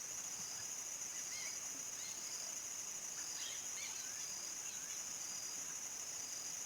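Crickets trilling in a steady, unbroken high-pitched chorus, with faint, scattered short bird calls.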